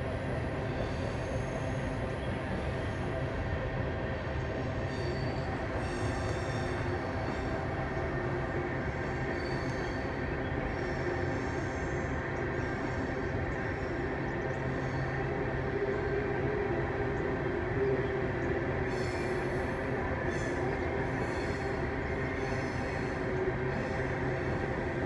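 Coal hopper cars of a CSX freight train rolling past at steady speed: an even rumble of wheels on rail with repeated brief, high wheel squeals.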